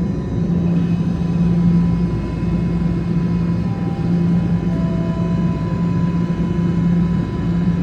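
TTC Line 1 subway train running at the platform: a steady low rumble with a constant electrical hum.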